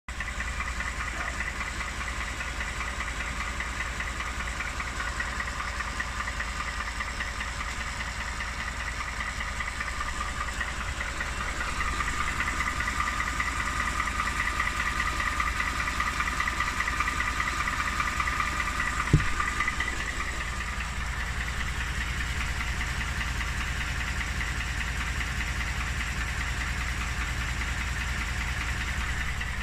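Replacement engine idling with a steady, rapid knock, the knock still present in this second motor. It runs somewhat louder for several seconds in the middle, with a single sharp click just before it settles back.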